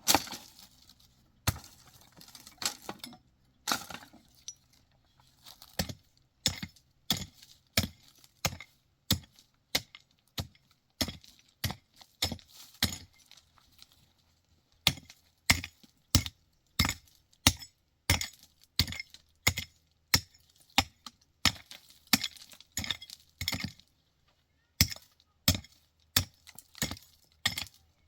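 Repeated sharp knocks, roughly one or two a second, with a few short pauses.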